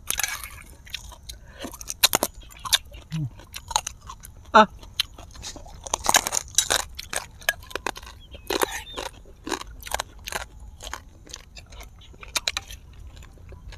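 Close-miked chewing and biting of crisp food by two people eating, a dense run of irregular sharp crunches through the whole stretch. A brief voiced sound comes about four and a half seconds in.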